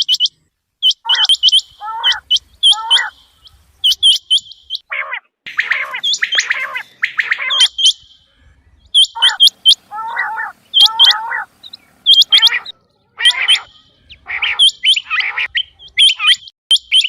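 Quails calling: quick runs of sharp, high chirps alternating with lower, slurred two- and three-note calls, repeated over and over with short pauses between.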